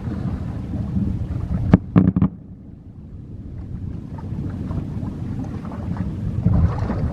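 Fireworks bursting: a dense, continuous low rumble of booms, with a cluster of sharp bangs about two seconds in, then a brief lull before the rumble builds again.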